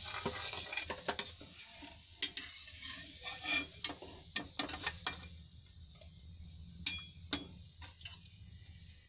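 Rasgulla balls frying in a pan with a sizzle, while a perforated metal skimmer clicks and scrapes against the pan as the fried balls are lifted out. The sizzle drops away about five seconds in, and scattered clicks go on after it.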